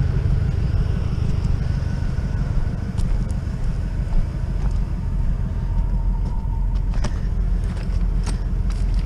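Steady low rumble of a motor vehicle running, with a few light clicks and clanks of scrap metal being handled.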